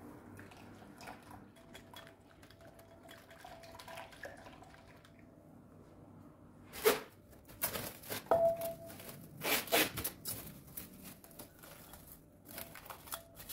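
Kitchen handling sounds while bread-dough ingredients are prepared: soft small clicks and rustles for the first several seconds, then from about seven seconds in a run of short, sharp rustling noises, with one brief ring a little after eight seconds.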